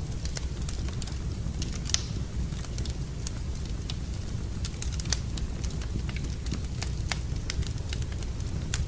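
Wood fire burning in a fireplace: irregular crackles and pops over a low steady rumble, with the sharpest pops about two seconds in and about five seconds in.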